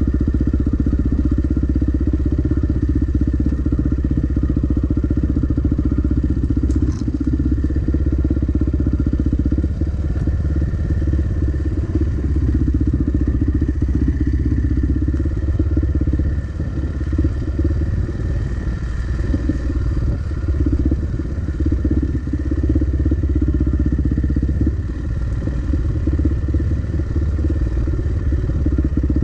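Dirt bike engine running steadily at low revs, with no big revving.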